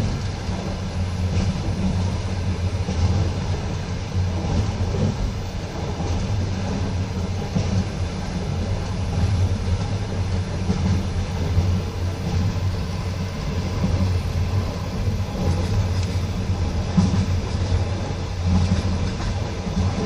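Passenger train carriage running along the line: a steady low rumble of the wheels on the rails, with occasional faint knocks of the wheels.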